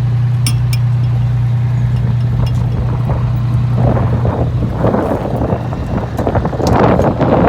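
Pierce Arrow pumper fire engine idling with a steady low hum. From about four seconds in, wind gusts on the microphone rustle loudly over it.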